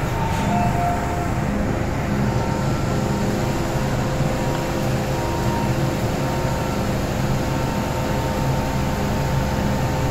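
MTR M-train standing at a station platform: a steady hum and low rumble from the train, with a couple of faint steady tones over it.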